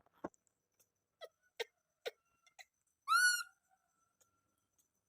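A baby monkey gives one high, arching squeal about three seconds in, preceded by a few short, soft clicks or taps.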